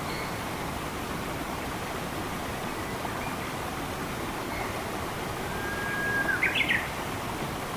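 Steady rush of flowing water with faint bird chirps; about six seconds in a bird gives a held whistle followed by a quick burst of higher notes.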